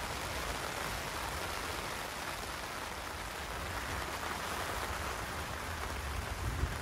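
Steady rain falling on the tent fabric overhead, an even hiss of drops with no pauses.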